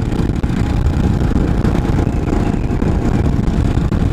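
Kawasaki KLR650's single-cylinder four-stroke engine running steadily as the motorcycle is ridden along.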